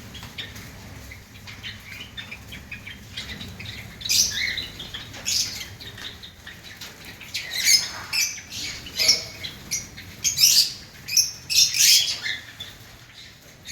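Java sparrows chirping, short high calls in irregular bursts that come thicker from about four seconds in.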